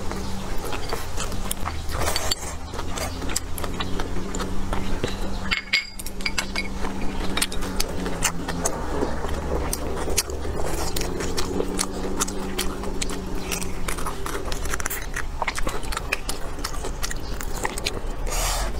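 Close-miked eating sounds: a mouthful of noodles and greens, then bites of a vegetable pancake, with dense wet clicks and crackles of chewing and biting over a steady low hum.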